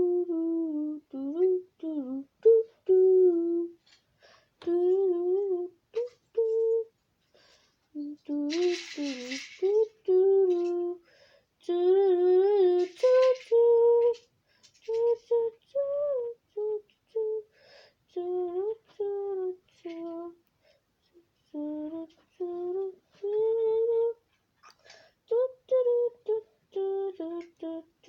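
A person humming a tune without words, in short melodic phrases with brief pauses; two short bursts of hiss come about nine and thirteen seconds in.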